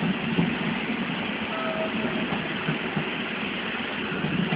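Train running along the rails, a steady rumbling and rushing noise, with a brief faint squeal about one and a half seconds in.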